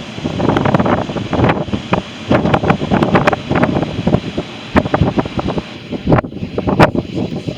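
Hurricane-force wind gusting hard against the microphone, a loud irregular buffeting rush that rises and falls in quick gusts, dropping briefly a little after six seconds in.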